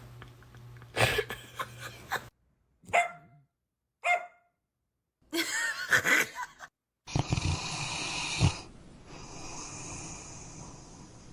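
A dog barking in a few short, separate bursts, broken by abrupt silences, then a stretch of steady noisy breathing.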